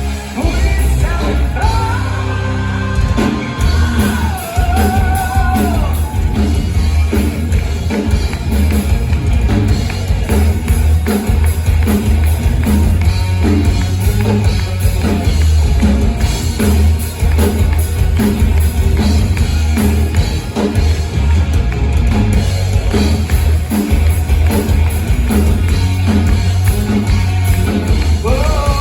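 Live heavy metal band playing loudly, with a sung line over the band for the first few seconds, then an instrumental passage with heavy bass and steady drums.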